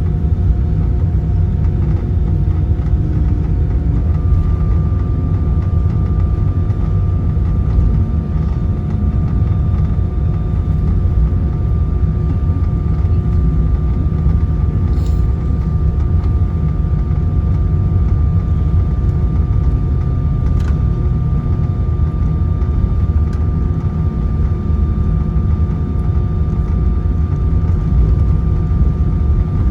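Steady low rumble inside the cabin of an Airbus A320-214 on the ground after landing, its CFM56 engines running at taxi power, with steady whining tones over it; a higher whine joins about four seconds in.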